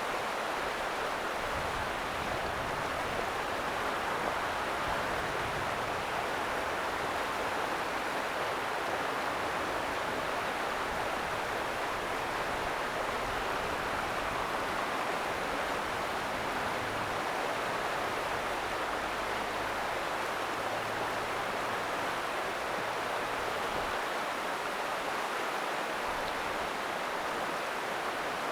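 Ōta River water flowing in a steady, unbroken rush.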